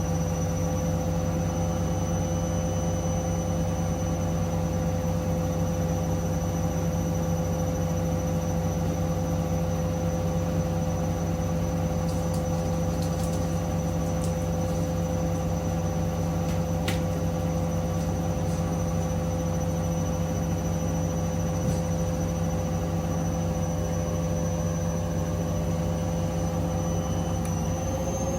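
Hoover Link washing machine on its 1000 rpm final spin: a steady motor whine over the hum of the drum at full speed, with a slight rise in pitch near the end.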